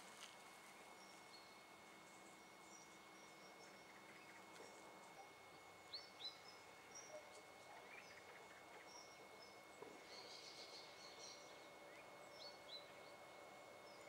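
Near silence: quiet outdoor ambience with scattered faint small-bird chirps and calls, including a couple of short, sharp falling calls.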